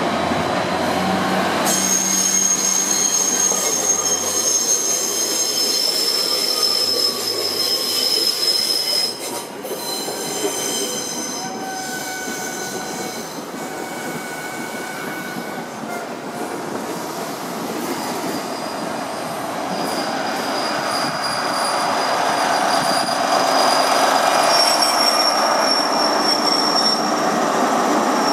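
InterCity 125 (HST) train running slowly along the platform, a steady rumble overlaid by thin, high-pitched wheel squeals that come and go. Over the last third the sound swells as the Class 43 power car with its MTU diesel comes alongside.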